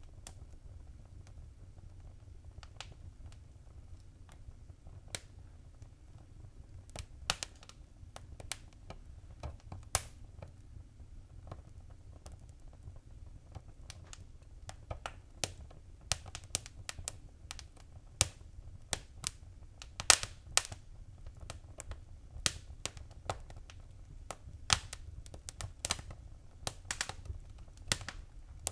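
Wood fire crackling in a fireplace: irregular sharp pops and snaps over a low steady rumble. The pops are sparse at first and come much more often in the second half.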